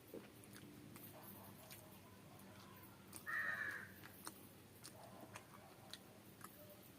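Faint chewing and small wet mouth clicks of someone eating rice and curry, with a single crow caw a little past three seconds in, the loudest sound here.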